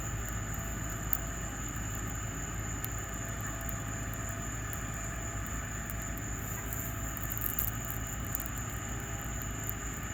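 Backyard bonfire of wood and cut grass burning: a steady low rumble with a few scattered crackles and pops, over a steady high whine.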